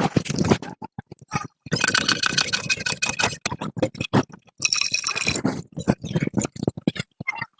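Hand tools scraping and clicking on metal machine parts: quick taps and knocks throughout, with two longer scrapes, one about two seconds in and a shorter one near the middle.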